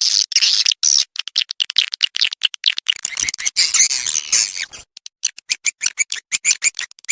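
Recorded edible-nest swiftlet calls played as a swiftlet-house lure: dense, rapid high twittering chirps that settle about two-thirds of the way in into a regular series of short chirps, about four a second.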